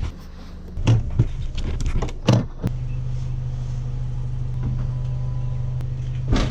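A few clunks and rattles, then a car engine starting and settling into a steady low idle about two and a half seconds in; a knock near the end. The car is the vlogger's 2020 Subaru Outback.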